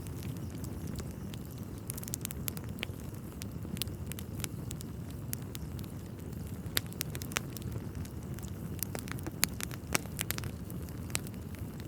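Wood fire burning in a fireplace: a steady low rumble of flame with irregular crackles and a few sharp pops from the burning logs.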